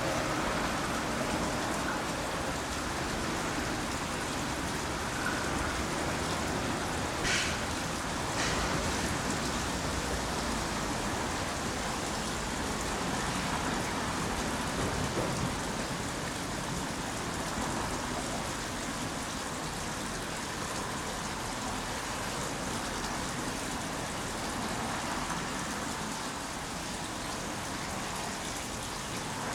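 Steady rain falling and pattering on surfaces, with two brief clicks about seven and eight seconds in.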